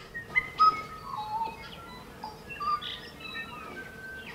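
Birds chirping and whistling: many short calls at different pitches overlapping one another over a steady background hiss, loudest about half a second in.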